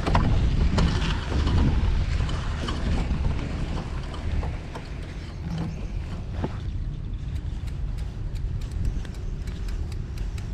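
City street traffic noise with a low rumble of wind on the microphone, heard from a moving bicycle. About two-thirds of the way through, a run of light, quick ticks begins, about four or five a second.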